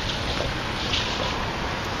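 Steady rumbling noise of an approaching freight train led by diesel locomotives, still some way off.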